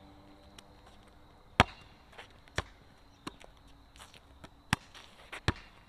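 Basketball bouncing on a hard outdoor court: a string of sharp, irregularly spaced thuds, roughly one a second, the loudest about one and a half seconds in.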